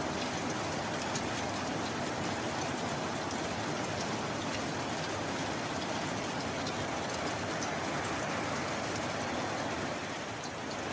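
Steady heavy rain falling, a dense even hiss with individual drops ticking through it, easing slightly for a moment near the end.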